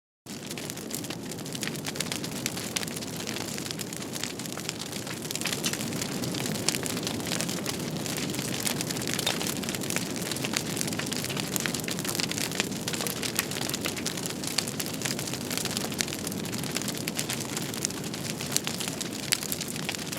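Wood fire crackling in a fireplace: a steady hiss with many small pops and snaps. It starts suddenly out of silence just after the start.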